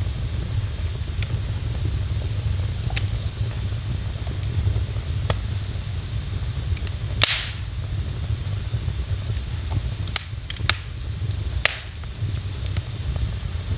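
Wood fire in a fireplace crackling, with scattered small ticks and sharp pops: the loudest about seven seconds in and three more between ten and twelve seconds, over a steady low rumble and hiss.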